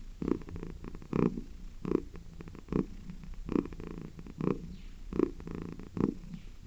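Domestic cat purring, the purr swelling and easing in rhythm with its breathing, a little more than one swell a second.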